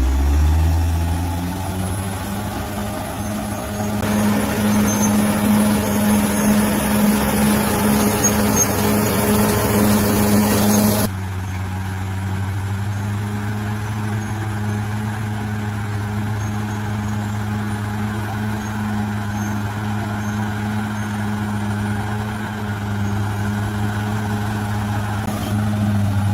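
Bulldozer's diesel engine running under load with a steady low drone, its pitch rising right at the start. A louder rough, noisy layer rides over it from about four seconds in and cuts off suddenly after about eleven seconds, leaving the steady engine drone.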